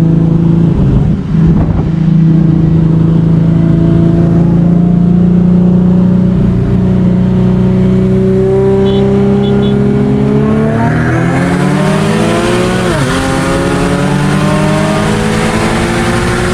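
Turbocharged Infiniti G37's engine pulling hard at full throttle in a roll race, its pitch climbing through a long gear, then dropping at a gear change about 13 seconds in and climbing again. A hiss builds over the last few seconds.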